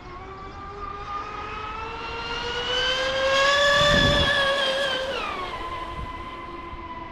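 Exocet 125 electric RC catamaran's motor and propeller whining at speed, rising in pitch and loudness to a peak about four seconds in, then dropping sharply in pitch just after five seconds and carrying on as a steadier, quieter whine.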